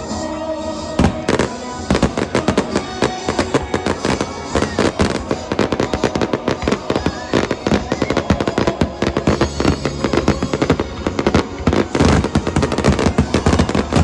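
Fireworks going off in a rapid barrage of bangs and crackles, many a second, getting dense about a second in, with music playing throughout.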